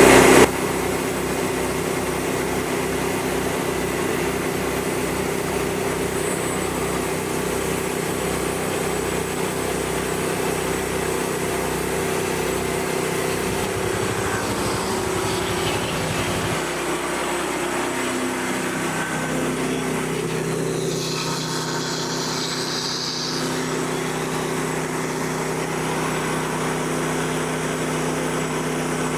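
Small gasoline engine of a portable bandsaw mill running steadily. Just past halfway through, a low throbbing drops away and the pitch shifts slightly.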